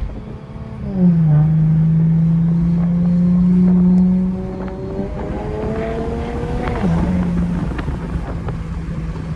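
Infiniti Q50 engine under hard acceleration, heard from inside the cabin: the engine note climbs in pitch, with drops at gear changes about a second in and again about seven seconds in. It is loudest in the first half, then eases off.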